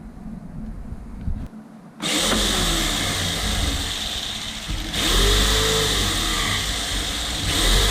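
A handheld power tool switched on about two seconds in and running loudly, its motor speed rising and falling as it works, with a short let-up midway.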